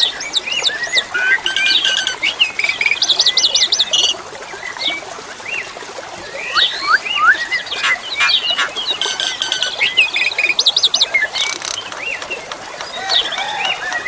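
Pied starling (jalak suren) singing a varied song of rising and falling whistles, quick repeated sweeps and buzzy rattling notes, with steady running water behind.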